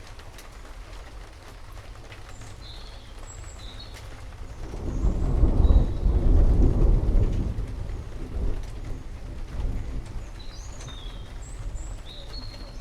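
Thunder rumbling over steady heavy rain. A deep rumble builds about five seconds in, peaks, then fades away over several seconds while the rain hiss goes on.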